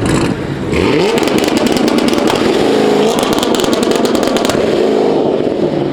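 A performance car's engine revving hard, its pitch climbing about a second in. Rapid exhaust pops and crackles follow for a few seconds. It is really loud.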